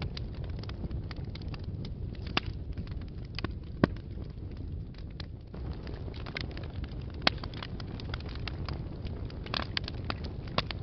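Fire burning in a fireplace: a steady low rumble of flames with scattered crackles and pops, two sharper pops about four and seven seconds in.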